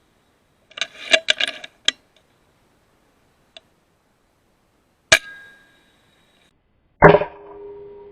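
Sharp mechanical clicks and clatter from the FX Impact M3 .22 PCP air rifle as it is handled, then a sharp crack about five seconds in. Near the end comes a louder crack followed by a ringing tone that fades over about two seconds.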